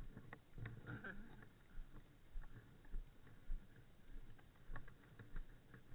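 Irregular light knocks and rustling, a few a second, with faint voices in the background.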